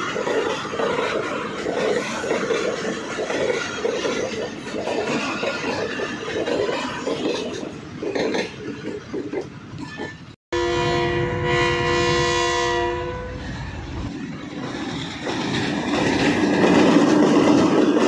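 Pakistan Railways train running on the rails with a steady rumble and clatter. After an abrupt break about ten seconds in, the train's horn sounds one steady blast of about two and a half seconds. Then the running noise returns and grows louder near the end.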